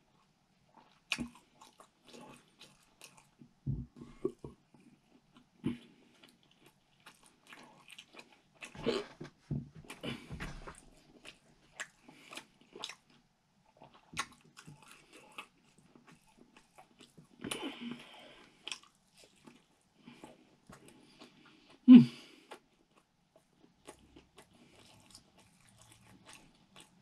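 A man eating fried rice and meats with his fingers: irregular chewing with soft mouth clicks and smacks and an occasional crunch. One sharper, louder sound comes about five seconds before the end.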